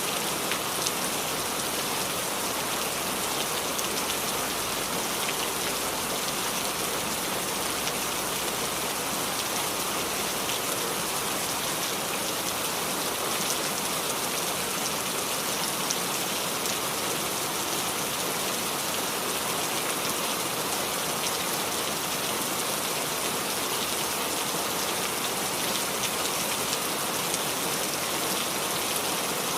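Steady rain falling and dripping onto the leaves of a small tree: an even hiss flecked with many small drop ticks.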